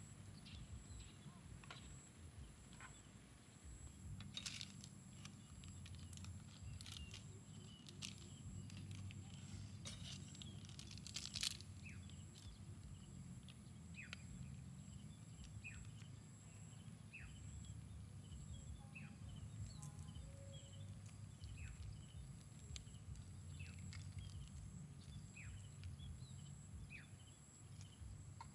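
Quiet bush ambience: a low steady rumble and a thin high-pitched tone, with a few sharp clicks in the first half and small birds giving short, falling chirps about once a second through the second half.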